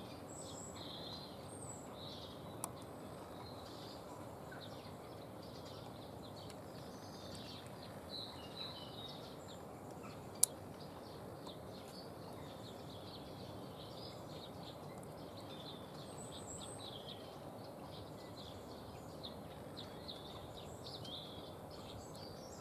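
Several small songbirds chirping and calling, often overlapping, over a steady background hiss. Two sharp clicks, one about two and a half seconds in and a louder one about ten seconds in.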